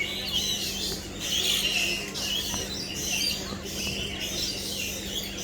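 A flock of parrots chattering, many short, high chirps and calls overlapping without a break.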